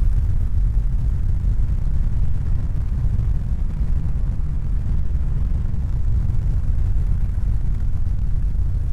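Steady, loud, deep rumbling noise with no clear pitch, strongest in the bass.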